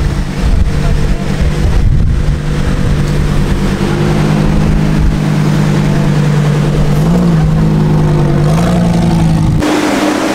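Lamborghini Huracán Spyder's V10 engine running steadily at low revs, lifting slightly in pitch twice in the last few seconds. Near the end the sound cuts to a different car engine.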